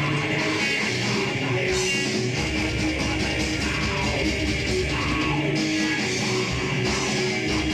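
Live heavy rock band playing, with electric guitars and a drum kit; the low end drops out briefly a few times.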